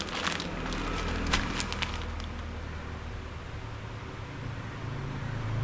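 Plastic lure packets being handled: a few crinkles and clicks in the first two seconds, then only a steady low hum.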